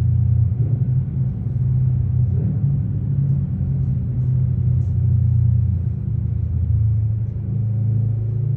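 Kawasaki Ninja 650 parallel-twin engine running through a full Akrapovic titanium exhaust, held at a fairly steady engine speed with small rises and dips in pitch.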